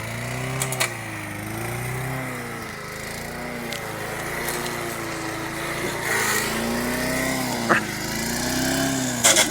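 Small lawn mower engine running unevenly, its speed surging up and down about once a second, with a few sharp knocks. The engine sounds badly damaged.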